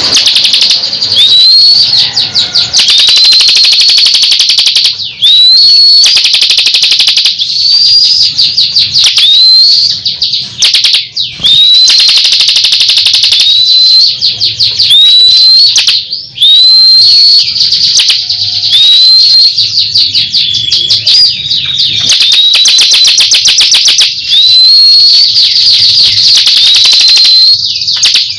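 Loud, continuous songbird song from a masteran (song-tutor recording for cage birds): fast, dense high trills broken every second or two by short rising whistled notes.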